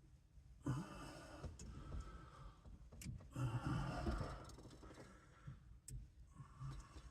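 A man's heavy breathing and sighs of effort, with a couple of small sharp clicks about three seconds in and again near six seconds, as a stuck horn-button cap is worked loose.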